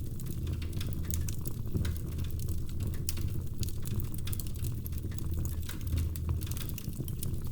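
Wood fire crackling in a fireplace: frequent irregular pops and snaps over a steady low rumble of the burning logs.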